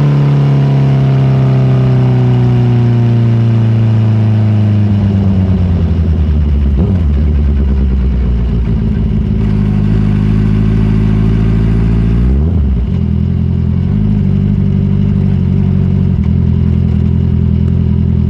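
Honda CBR650R's inline-four engine running on the move, its revs falling slowly over the first five or six seconds and then holding steady at a low pitch. About twelve and a half seconds in, the pitch dips sharply and comes straight back, as at a gear change.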